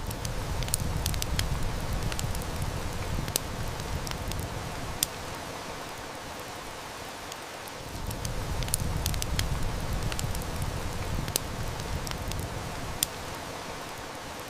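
Steady heavy rain with a wood fire crackling, scattered sharp snaps and pops over the rain. A low rumble swells twice, in the first few seconds and again in the middle.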